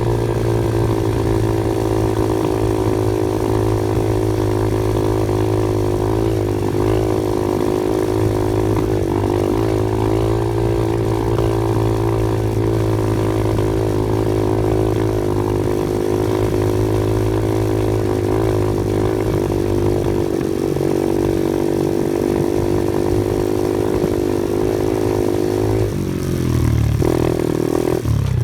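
Off-road vehicle engine running at a steady pace, with its pitch dipping and then rising again near the end.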